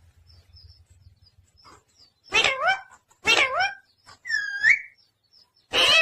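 Pet parrot giving four short, harsh calls about a second apart, starting a couple of seconds in; the third is a higher squawk that slides up and back down.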